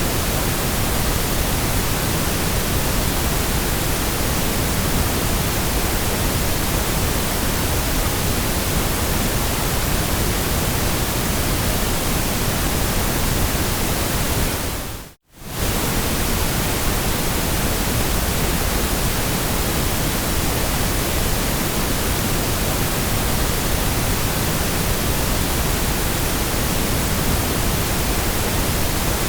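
Steady synthetic white noise, an even hiss across all pitches, that dips to silence for a moment about halfway through and comes straight back.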